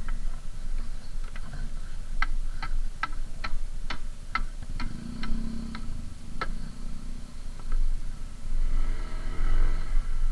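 Vehicle turn-signal indicator ticking evenly, about two and a half clicks a second for a few seconds, over the low rumble of the engine running.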